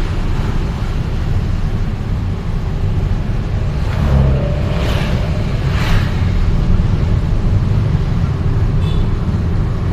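Road traffic heard from a moving vehicle: a steady low rumble of engine and road noise, with other vehicles swishing past about five and six seconds in.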